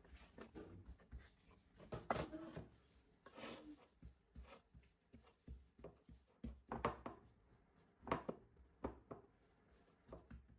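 Faint, irregular knocks, clicks and rubbing of small objects being handled, with a few louder taps.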